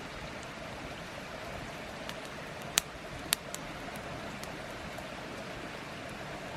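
Steady rushing of a creek's running water, with two sharp clicks about three seconds in, half a second apart.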